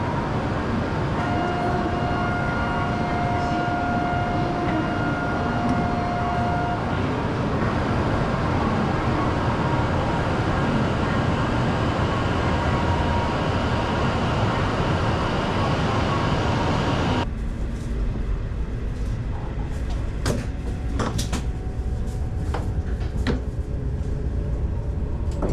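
W7-series Hokuriku Shinkansen train at the platform, starting to pull out: a steady rushing noise, with a held electronic tone over it for the first several seconds. About two-thirds of the way in, the sound turns deeper and duller, with scattered knocks.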